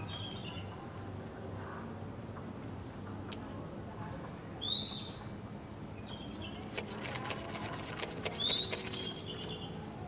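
A bird chirps twice, each a short upward-sweeping chirp, about four seconds apart. A run of light clicks and rustles comes just before and with the second chirp.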